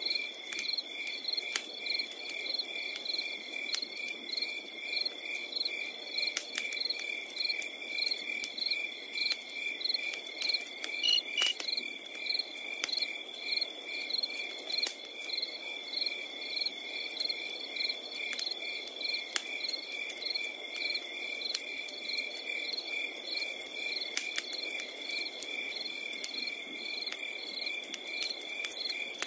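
Crickets chirping at night, a steady evenly pulsed chirp over a constant high trill. Scattered sharp crackles and pops from a campfire, the loudest about eleven seconds in.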